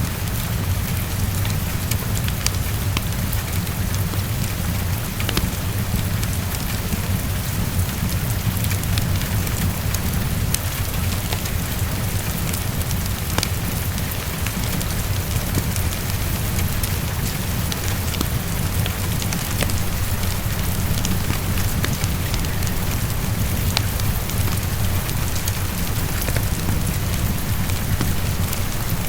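Heavy rain falling steadily, with a constant low rumble underneath and scattered sharp ticks of drops or fire crackle.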